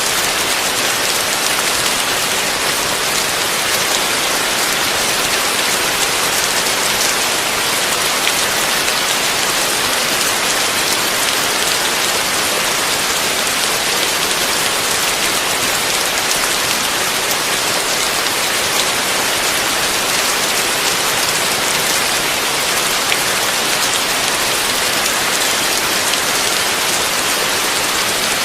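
Heavy rain falling on a roof in a dense, even hiss that holds steady throughout, with no thunder.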